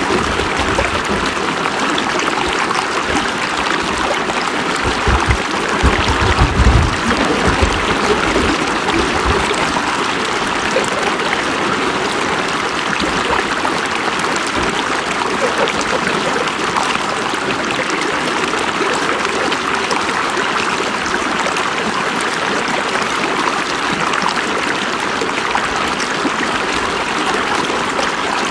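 River water flowing steadily, an even rushing wash, with a few low rumbles about five to seven seconds in.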